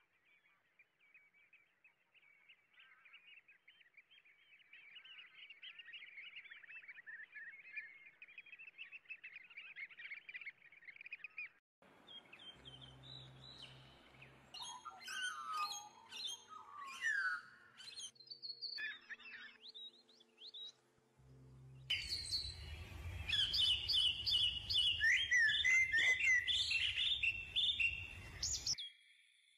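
Birds chirping and calling. A steady chorus of small chirps runs through the first half, then gives way to louder, more varied calls, and these stop suddenly near the end.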